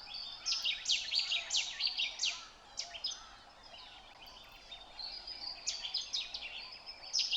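A chorus of birds calling, made up of many quick, sharp chirps that sweep downward in pitch. The calls thin out to a lull in the middle and then pick up again.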